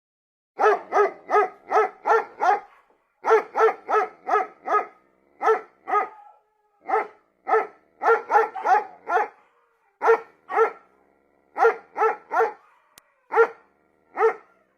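A dog barking repeatedly: short, sharp barks in quick runs of two to six, with brief pauses between runs.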